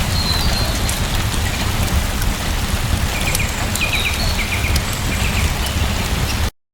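Steady rain with a deep low rumble under it and scattered drop clicks. A few short high chirps sound about halfway through, and the sound cuts off suddenly to silence just before the end.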